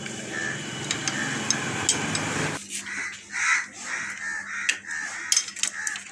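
Metal clinks and knocks of tools and parts as a motorcycle self-starter motor is taken apart, with crows cawing in the background. A steady noise stops abruptly about two and a half seconds in.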